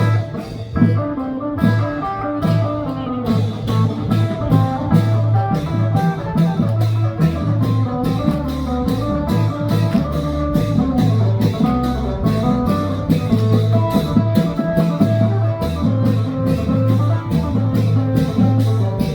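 Loud band music with a steady beat: a plucked, guitar-like lead melody over a pulsing bass line and drums with cymbals.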